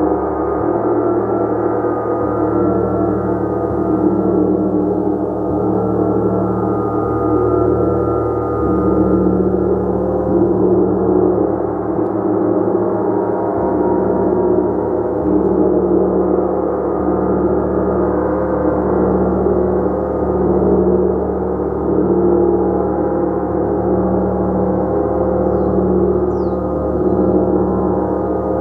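A gong played continuously, its many overlapping tones blending into a dense, steady wash of sound with no breaks.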